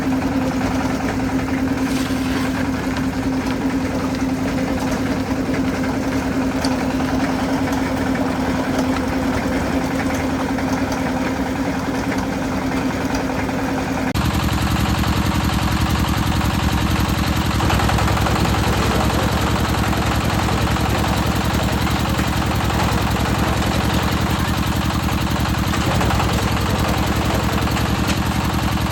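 Concrete mixer's engine running steadily. About halfway through the sound cuts suddenly to a fuller, lower and slightly louder drone.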